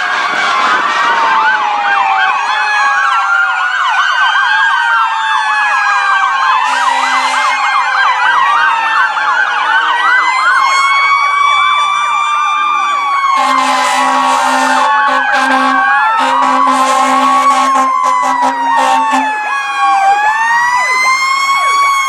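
Several fire-apparatus sirens sounding at once, overlapping wails and fast yelps rising and falling against each other. From about 13 seconds in, repeated blasts of a deep horn join the sirens.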